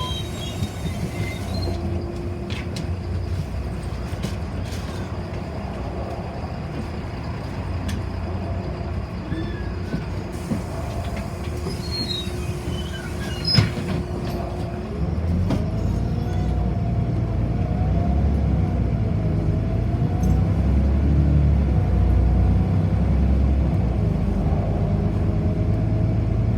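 City bus running, heard from inside the cabin: a steady rumble with a single knock about halfway through. After that the noise grows louder, with a whine that wavers up and down in pitch.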